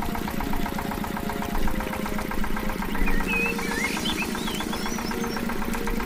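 Small motor of a miniature model water pump running steadily with a fast, even rattle.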